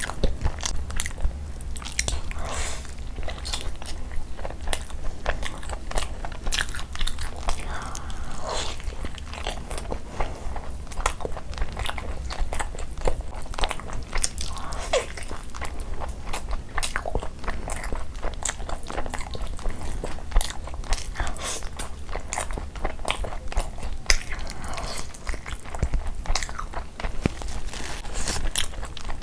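Close-miked ASMR eating: wet chewing, lip smacks and mouth clicks of someone eating khichdi and chicken ghee roast by hand, with many irregular clicks and short squelches.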